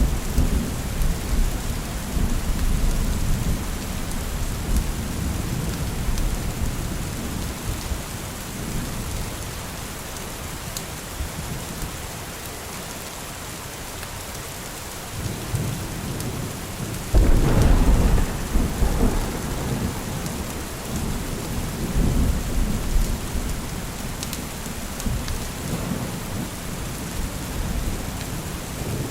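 Steady heavy rain with rolling thunder. A rumble fades away over the first several seconds, and a sharper thunderclap breaks out about seventeen seconds in and rolls on for a few seconds, with smaller rumbles after it.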